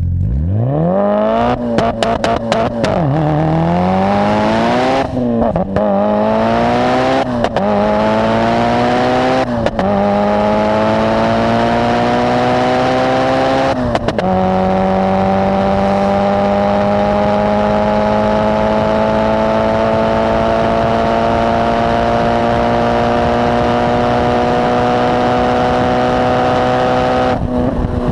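Mitsubishi Lancer Evolution's inline-four engine accelerating hard through the gears: the pitch climbs and falls back at each of five upshifts, every two seconds or so at first, then rises slowly and steadily through a long pull in the top gear.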